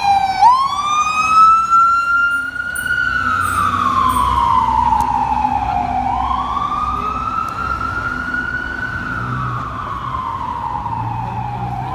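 Fire engine siren on a slow wail, its pitch sweeping down and up roughly every six seconds over a low truck engine rumble. The siren grows slightly fainter toward the end.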